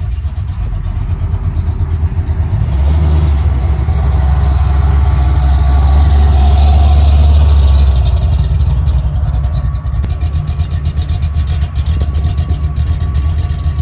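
Engine of an old second-generation Chevrolet Camaro driving past: a deep, loud rumble that builds over the first few seconds, is loudest about six to seven seconds in as the car goes by close, then eases as it pulls away.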